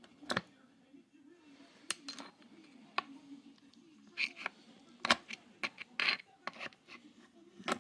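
Small metal parts of a riding mower's differential clinking and knocking against each other and against tools as they are handled. There are about a dozen short separate clinks, coming closer together in the second half, over a faint steady low hum.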